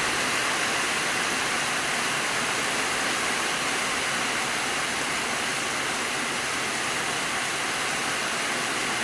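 Heavy rain pouring down steadily in an even hiss.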